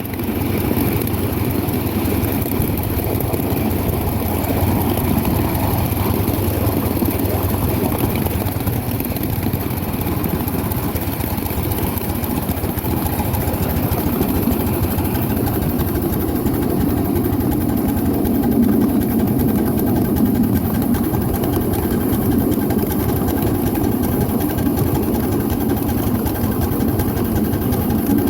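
Steady running rumble of a coal-fired 7.5-inch gauge live steam train, a 1/8-scale Allen 10-wheeler, moving along its track, with no separate chuffs or clicks standing out.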